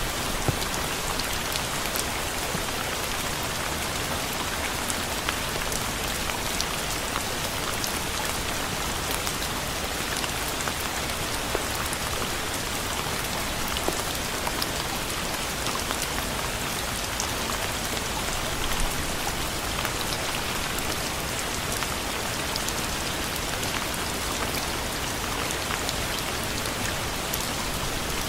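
Steady rain falling on a surface: a constant even hiss with many small individual drop ticks scattered through it.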